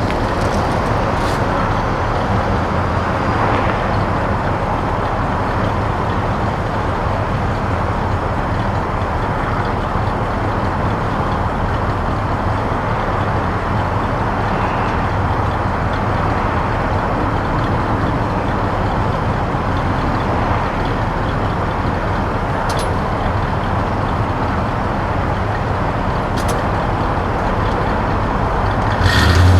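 1966 Chevrolet C-10 pickup's 350 V8 running steadily, a low even hum, with a brief louder low thump near the end.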